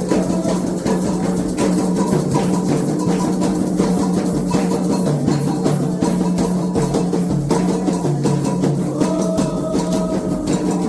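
Candomblé ritual drumming on atabaque hand drums, a fast, dense rhythm of strokes, with voices singing over it near the end.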